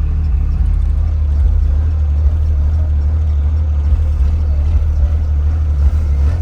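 Steady low rumble of a vehicle's engine and drivetrain heard from inside the cabin while driving slowly.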